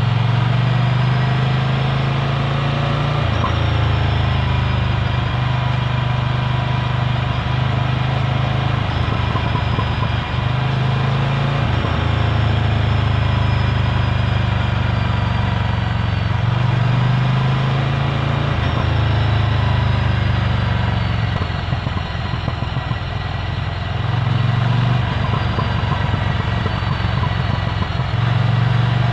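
Ducati Scrambler Full Throttle's air-cooled L-twin running through a Termignoni exhaust while riding, with the engine note changing every several seconds as the throttle and gears change.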